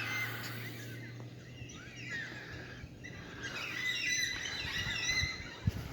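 Several birds chirping and whistling, with many short overlapping calls.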